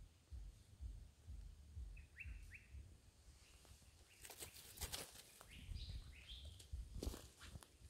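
Quiet bush ambience. Small birds give short chirps, three quick falling notes about two seconds in and a few more past the middle. Dry leaf litter crackles briefly near the middle and again near the end, over a low rumble.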